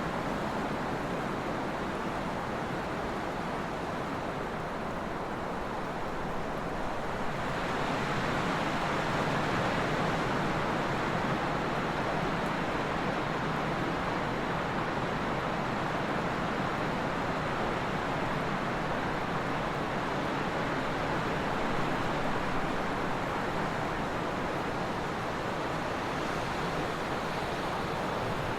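Trade wind blowing steadily with a rushing hiss. It strengthens into a stronger gust about a quarter of the way in, then slowly eases.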